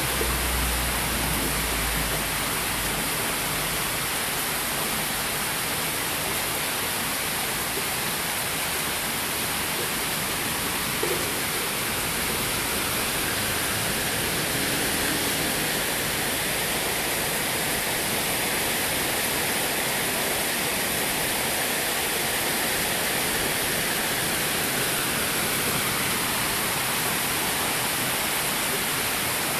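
Heavy rain falling steadily: an even, unbroken hiss of downpour. A low rumble fades out over the first couple of seconds.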